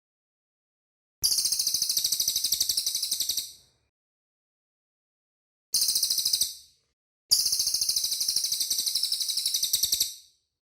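Cililin bird singing: three bursts of a very fast, high trill, the first and last about two and a half to three seconds long and a short one between them, with silence in the gaps.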